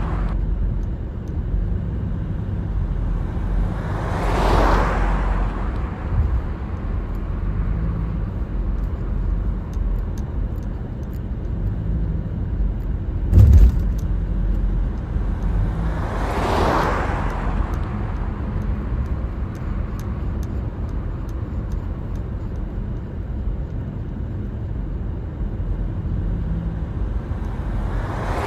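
Steady low road and engine rumble of a moving car, heard from inside, with passing vehicles whooshing by three times. A short thump about halfway through.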